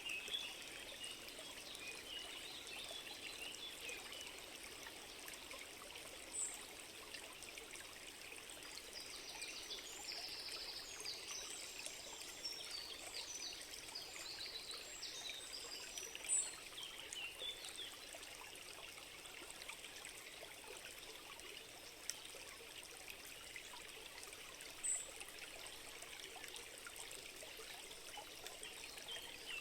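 A small stream trickling and running steadily, with short high bird calls over it now and then, a cluster of them a third of the way in.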